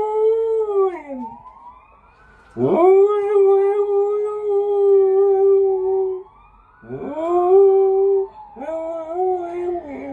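A setter howling in four long drawn-out howls, each swooping up and then held on one pitch, the last one wavering. A fainter wail glides slowly up and down between the howls, like a siren the dog is howling along with.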